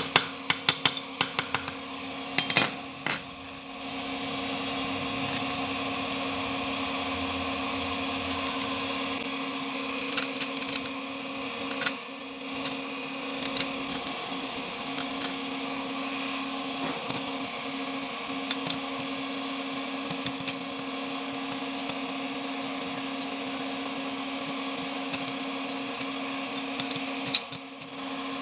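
Steady machine hum in a metal workshop, with a quick run of sharp metal clicks and taps in the first few seconds and scattered single clicks after.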